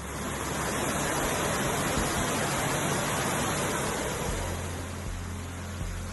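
Heavy hail of golf-ball-sized hailstones pelting down as a dense, steady noise of countless impacts, with a low hum joining about four seconds in.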